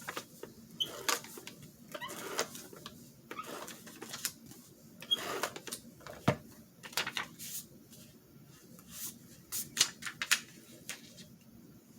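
Paper being handled on a desk: irregular rustles and small clicks as paper bird cut-outs are picked up, shuffled and laid down.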